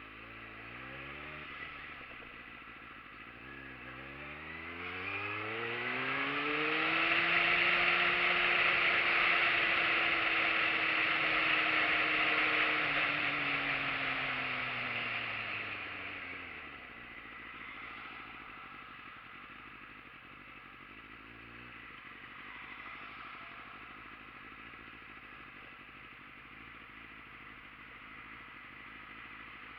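Motorcycle engine accelerating through the gears, its pitch climbing and dropping back at each shift. It then runs steady at speed under loud rushing noise, and winds down as the bike slows about 14 to 17 seconds in, running quietly after that.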